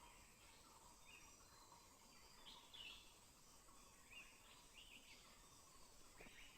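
Faint forest ambience: scattered short bird chirps, the clearest about three seconds in, over a steady faint insect buzz.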